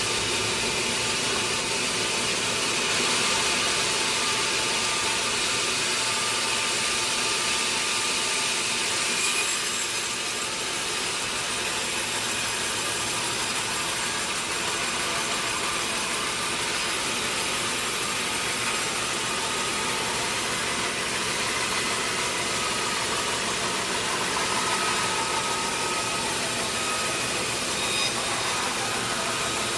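Sawmill saw running and cutting through a large teak log: a steady noise of blade in wood, strongest in the higher pitches, over the hum of the machine.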